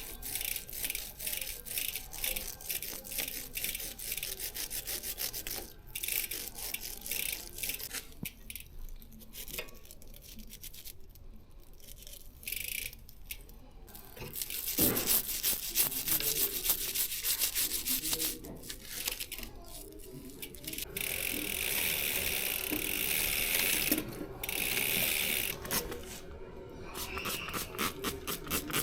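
A bicycle chain being cleaned: a brush scrubbing the chain, with rapid, even ticking, about four a second, from the rear freewheel while the cranks turn backward. The ticking runs for the first few seconds and comes back near the end, and a stretch of steady scrubbing falls between.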